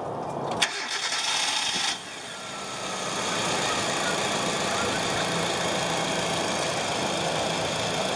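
Car engine, plausibly the 2011 Hyundai Accent's, running steadily after a sharp click less than a second in and a short burst of noise.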